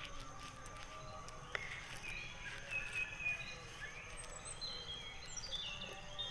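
Birds chirping: a string of short, high whistled notes and glides, coming thicker from about two seconds in, over faint outdoor background noise.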